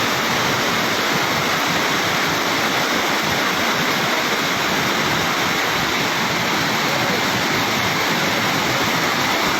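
Fast-flowing floodwater rushing steadily, a constant, even noise of moving water with no breaks.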